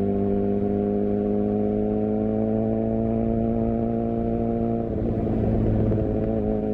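Suzuki GSX-R750 inline-four engine and exhaust running at steady revs, its pitch creeping slowly upward. About five seconds in, the note turns rough and noisy for a second or so, then steadies again.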